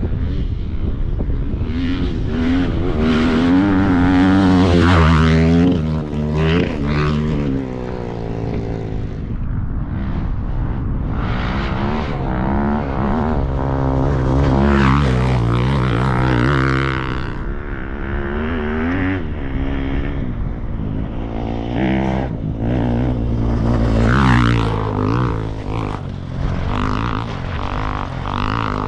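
KTM 350 EXC single-cylinder four-stroke engine through an Akrapović exhaust, revving up and dropping back several times, its pitch climbing and falling with each rise.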